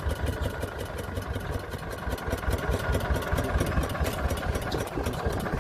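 1981 Eicher tractor's diesel engine idling steadily with an even firing rhythm.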